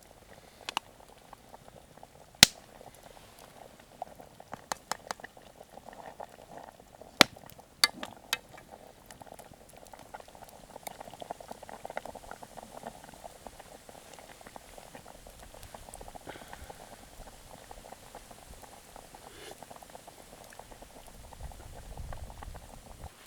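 A pot of liquid bubbling at a boil over a wood campfire, with a few sharp cracks from the fire, the loudest about two and a half seconds in.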